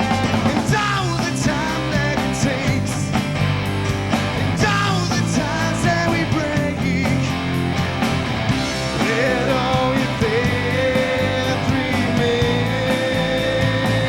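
Rock band playing with electric guitar, bass and drums, a steady beat under a lead melody of bent and held notes.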